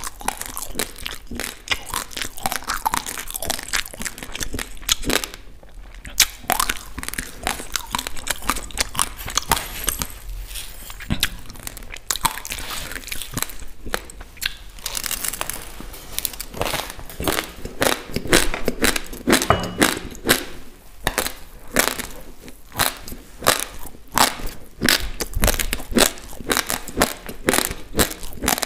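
Uncooked basmati rice grains being crunched and chewed right up against a lapel microphone: a dense run of sharp crackles, with short lulls about five seconds in and again around ten to twelve seconds.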